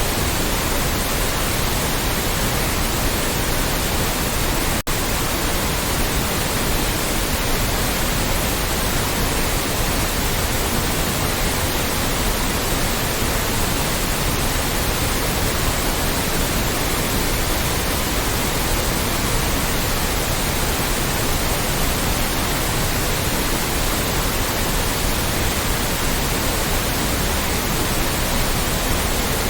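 Loud, steady generated white noise, an even hiss spread across all pitches, with one very brief dropout about five seconds in.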